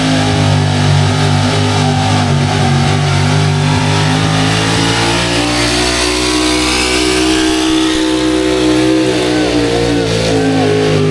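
Gasoline pulling truck's engine at full throttle under heavy load during a truck pull, held at high, fairly steady revs throughout.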